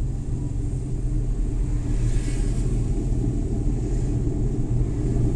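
Suzuki Every Wagon (DA64W) kei van driving on city streets: a steady low rumble of engine and road noise from its 660cc three-cylinder engine. A faint hiss swells briefly about two seconds in.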